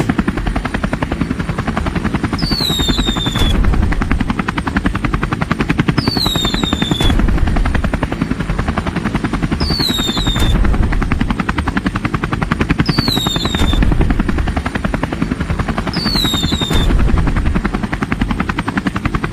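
A fast, steady chopping flutter, like a rotor sound effect, with a short high falling whistle that comes back five times, about every three and a half seconds.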